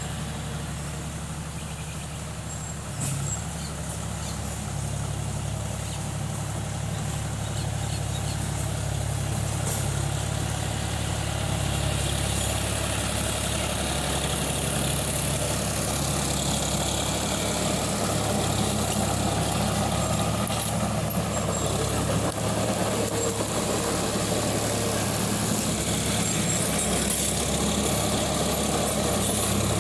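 Tractor engine running steadily, getting a little louder about twelve seconds in.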